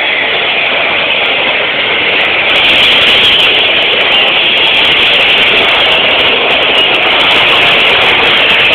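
Many caged large-billed seed finches (bicudos) singing at once: a loud, continuous chorus of overlapping whistled songs, getting a little louder about two and a half seconds in.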